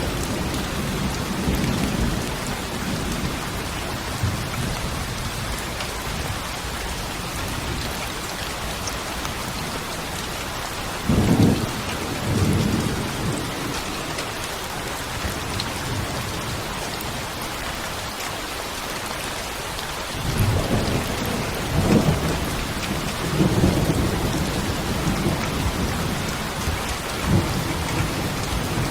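Steady rain with rolling thunder: low rumbles swell about eleven seconds in and again from about twenty seconds in.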